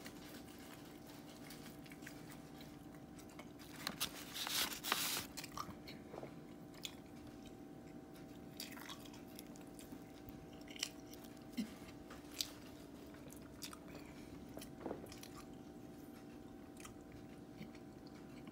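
A person chewing a crispy fried chicken sandwich: scattered crunches and mouth clicks, with a denser, louder run of crunching about four to five seconds in. A faint steady hum sits underneath.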